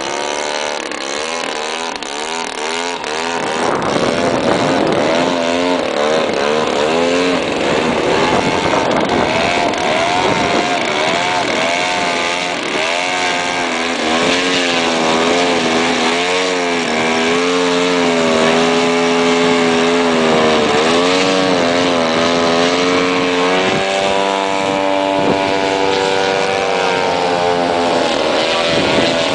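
Two large Extra aerobatic model airplanes with Torch 180 cc gasoline engines flying, their propeller-engine notes repeatedly rising and falling in pitch as they manoeuvre and pass.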